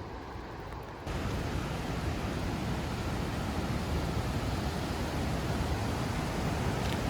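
Steady rush of falling water from a waterfall, a dense even roar that starts abruptly about a second in.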